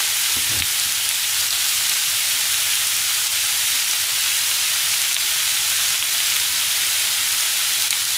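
Pork slices and vegetables frying in a frying pan, with a steady, even sizzle.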